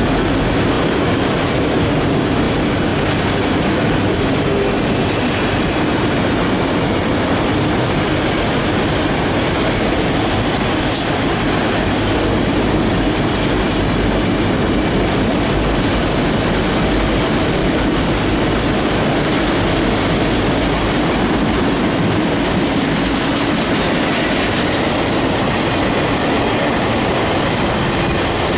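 CSX manifest freight train's cars rolling past at close range, a steady loud rumble with wheels clicking over the rail joints. A few short, high wheel squeaks come about halfway through.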